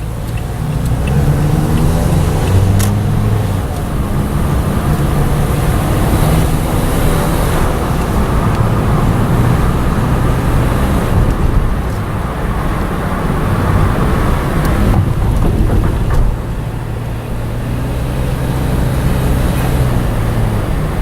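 Car engine hum and tyre and road noise from inside a moving car, steady throughout with small changes in engine pitch.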